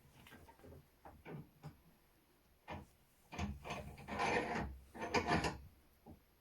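Several short scraping and rubbing strokes of hand work on the old shotgun's parts, the longest and loudest coming from about three and a half to five and a half seconds in.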